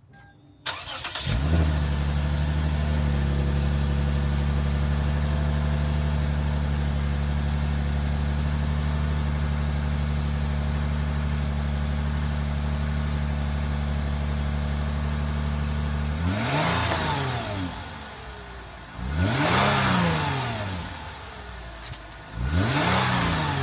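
2009 Lexus IS250's 2.5-litre V6 on its stock exhaust, cold-started. It catches about a second in and settles into a steady fast idle, then is revved three times, each rev climbing and falling back.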